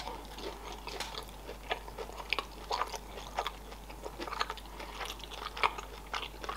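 A person chewing a mouthful of sushi roll, close to the microphone: soft, irregular wet clicks of the mouth and food, several a second.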